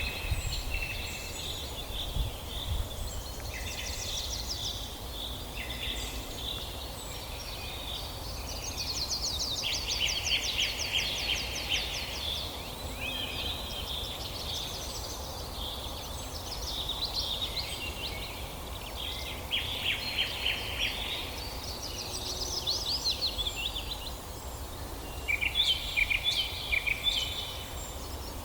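Several songbirds singing at once in a forest dawn chorus, with overlapping phrases and rapid trills, over a steady low rumble.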